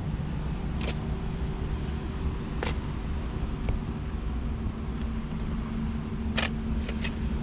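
Steady low vehicle rumble with a constant hum, broken by a few short sharp clicks.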